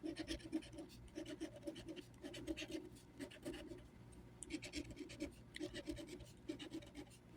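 Scratch-off lottery ticket being scratched: faint, rapid strokes rubbing the latex coating off the card.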